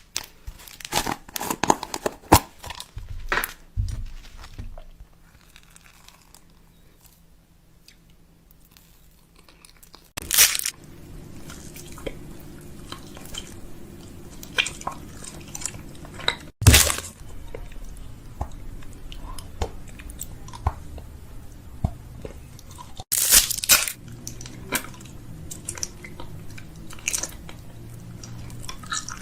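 Items being handled while a fridge is restocked: repeated sharp clicks, taps and crunchy rustles of containers and packaging being set down and shifted. A faint steady low hum runs under parts of it.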